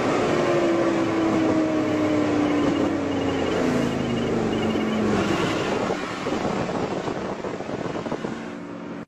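BMW M5 E60's V10 engine heard from inside the cabin at highway speed, its note falling slowly over about five seconds, over wind and tyre noise. It gets quieter from about six seconds in.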